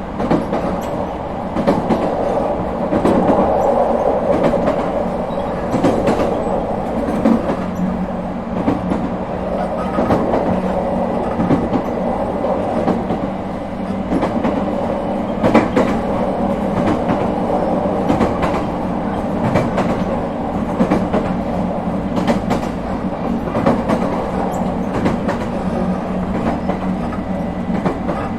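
Running sound of an ET127-series electric multiple unit with Toyo IGBT-VVVF traction equipment, travelling at a steady speed: a continuous rumble with a steady low hum and sharp wheel clicks over rail joints at irregular intervals.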